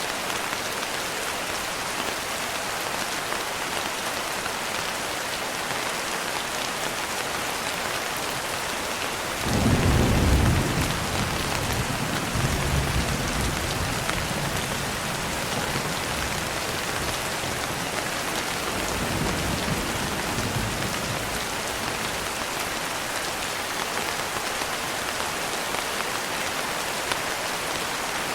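Steady heavy rain, with a sudden loud roll of thunder about ten seconds in that rumbles on for several seconds, and a softer rumble of thunder a little later.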